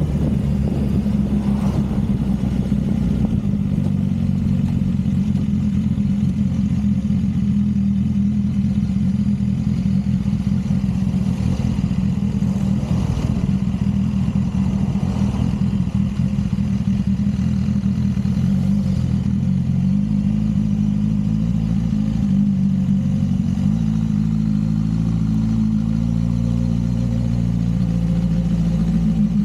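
Motorcycle engine running steadily under way, with a low rumble beneath it. The engine note shifts slightly about two-thirds of the way through.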